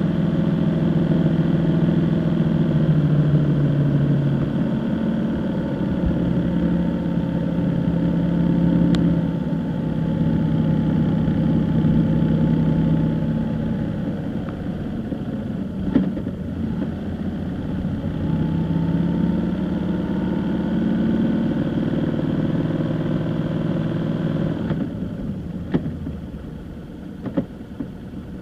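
A vehicle's engine running while under way, its pitch rising and falling as it speeds up and eases off. Near the end it drops off sharply, with a few short knocks.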